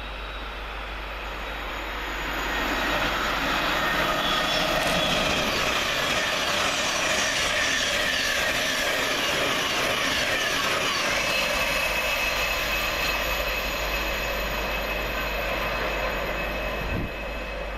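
Thameslink Class 700 electric multiple unit passing through on the fast line: a rush of wheels on rail and air that builds about two seconds in, with a whine that slides down in pitch, and drops away near the end.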